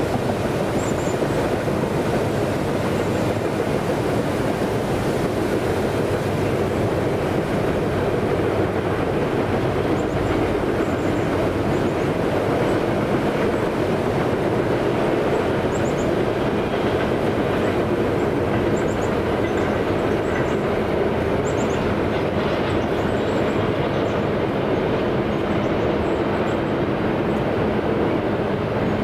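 A passing train's cars rolling along the track in a long, steady rumble, with wheels clicking over the rail joints.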